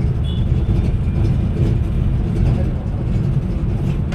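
Steady low rumble of a road vehicle on the move, engine and road noise heard from inside.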